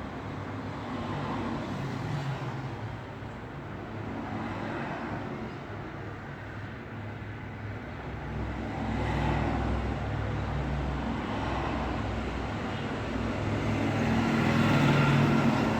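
Road traffic: a steady wash of car tyre and engine noise, with vehicles swelling louder as they pass about nine seconds in and again near the end.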